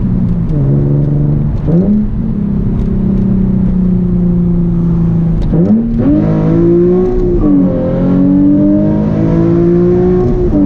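Nissan 350Z Nismo's 3.5-litre V6 running through a Tomei exhaust, held at a steady raised rev with two quick blips up in pitch, about two seconds in and again about six seconds in.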